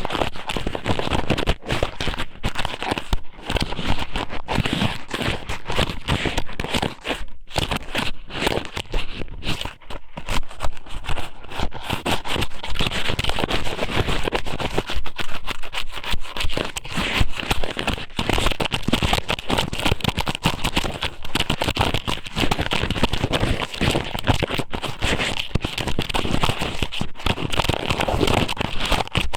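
Squid sōmen strips pushed and rubbed inside a microphone's ear, close up. The result is a dense, continuous sticky crackling and scraping made of many small clicks.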